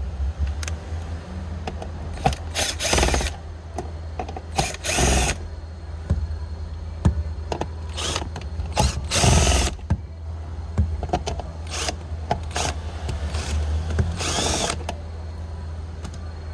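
Cordless electric screwdriver running in about six short bursts, some rising and falling in pitch, backing out the screws that hold the head-unit trim of a 2012 Hyundai i30 dashboard. A steady low hum runs underneath.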